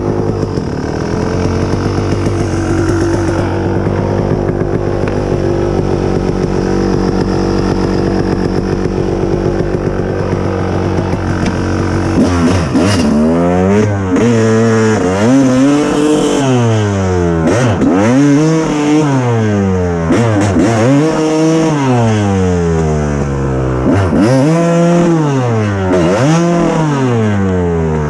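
Kawasaki KX250 two-stroke dirt bike engine running at a steady speed, then from about twelve seconds in revving up and dropping back again and again, about every two seconds.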